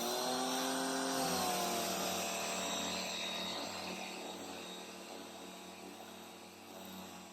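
Pressure washer starting up: its motor and pump hum rises in pitch over the first second or so, then runs steadily with the hiss of the water spray, slowly getting quieter.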